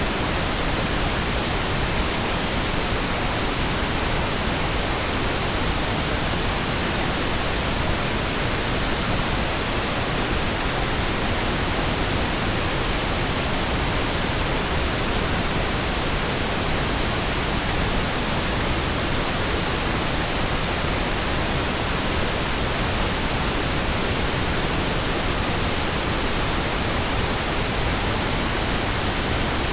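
Pink noise: a steady, even hiss with no changes or breaks.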